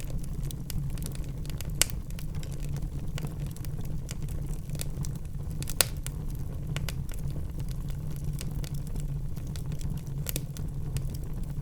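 Wood fire burning in a fireplace, with a steady low rumble and scattered sharp crackles and pops, two of them louder, about two seconds and six seconds in.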